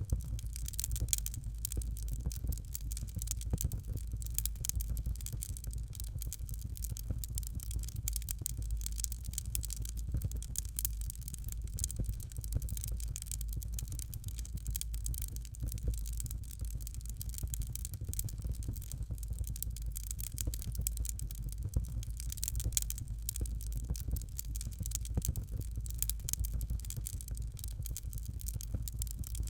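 Fireplace fire crackling steadily, with dense irregular pops and snaps over a low, even rumble.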